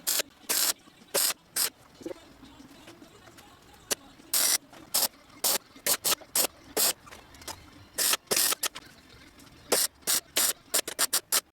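Welding arc on the steel repair panel of a VW T3 crossmember, struck in a string of short hissing, crackling bursts: tack and stitch welding. The bursts come quicker and shorter near the end.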